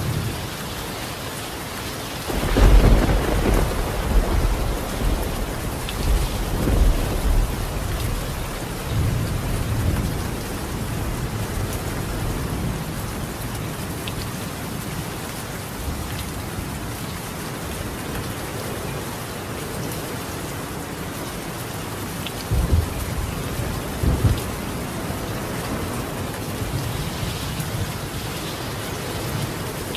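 Steady rain falling on a tiled roof. A long roll of thunder starts a few seconds in and rumbles on for about eight seconds, and two shorter thunder rumbles come about two-thirds of the way through.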